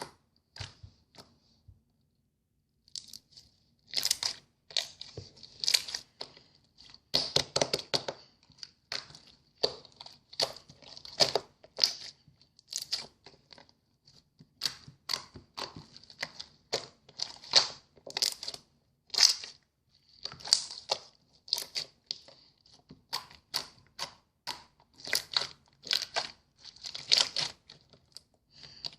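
Handmade clear slime with clam-shell charms in it being squeezed and worked by hand, giving a run of sharp wet clicks and pops, one or two a second, after a quiet couple of seconds at the start.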